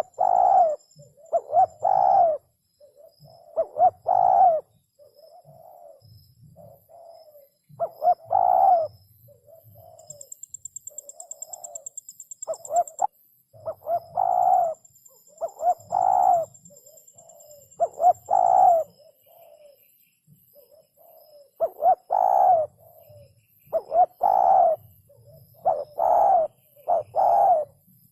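Spotted dove cooing: loud, low coo notes come in repeated clusters, with softer coos between them. A high, rapid trill runs for about three seconds starting around ten seconds in.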